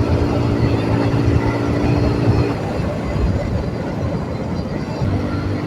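Single-cylinder motorcycle engine running at cruising speed under a steady rush of wind and road noise. Its steady tone drops away about two and a half seconds in and comes back near the end.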